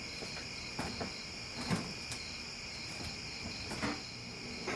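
A steady, high-pitched insect chorus, like crickets, with a few faint clicks and knocks.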